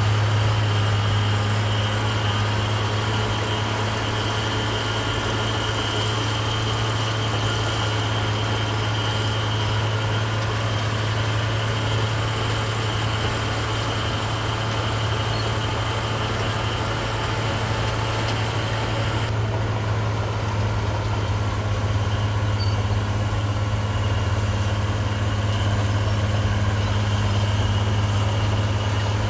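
Heavy diesel engine of construction machinery running steadily at low speed, a deep even drone with no change in pitch.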